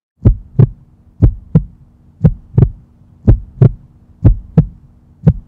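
Heartbeat sound: a double thump, lub-dub, repeating about once a second over a low steady hum.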